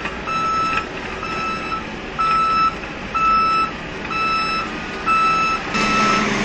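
Heavy vehicle's reversing alarm beeping about once a second, each beep about half a second long, over a steady rumble.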